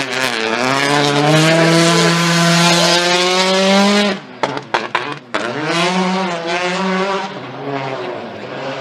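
Turbocharged 1.6-litre four-cylinder rally car engine at full throttle, its pitch climbing steadily for about four seconds, then cutting off abruptly with several sharp cracks before it picks up again and eases off toward the end.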